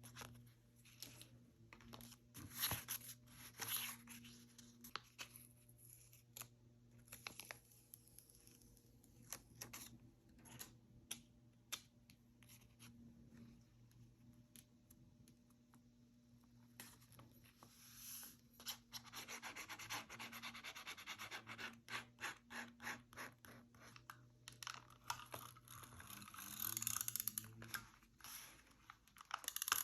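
Paper being handled at a craft table: scratchy rubbing and scraping with many small taps and clicks, growing into a longer stretch of steady rubbing in the last third, over a faint low hum.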